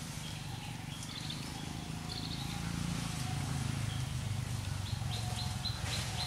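Outdoor ambience: a steady low rumble with a small bird giving short high chirps, a quick run of about six near the end.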